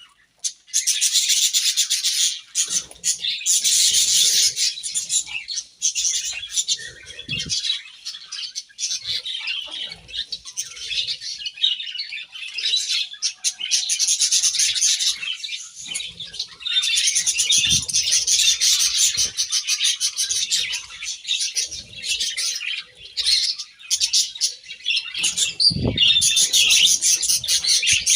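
A flock of budgerigars chirping and chattering continuously in dense, overlapping high-pitched warbles, with brief lulls. A few soft low thumps come from within the cage.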